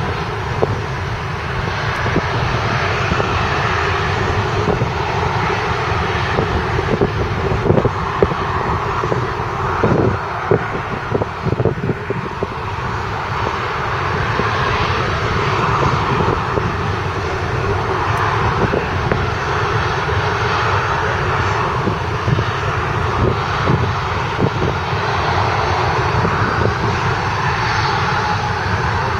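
Boeing 737-800 jet airliner's CFM56-7B turbofan engines at take-off power, running loud and steady.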